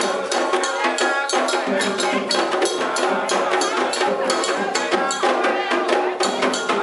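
Candomblé ritual music: atabaque hand drums and a struck bell beating a dense, fast rhythm, with voices chanting over it.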